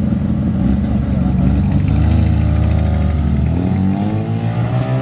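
A first-generation Mazda RX-7's rotary engine is pulling away, running at a steady note, then revving up with rising pitch from about three and a half seconds in as the car accelerates.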